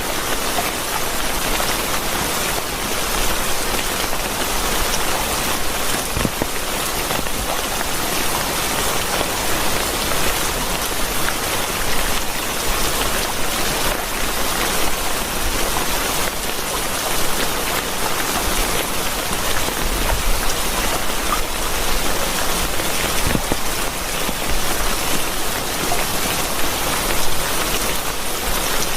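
Steady rain falling, a dense even hiss with scattered drop ticks throughout.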